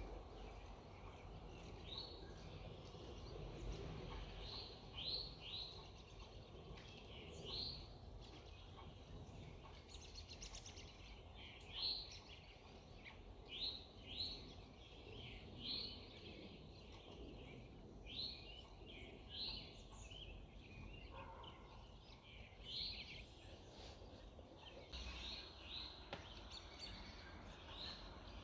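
Several birds singing and chirping in an early-morning chorus, short high notes coming every second or so, over a faint steady low background rumble.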